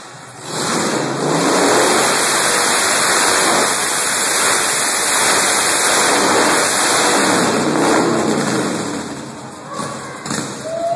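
1999 Harley-Davidson Dyna Wide Glide's Twin Cam 88 V-twin engine revving hard as the sidecar rig circles on a concrete floor. The sound drops off at the start, comes back up within a second, holds at high revs for several seconds and dips again about nine seconds in.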